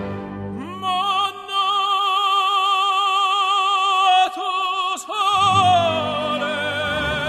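Background music: an operatic voice singing long, held notes with strong vibrato over an orchestra.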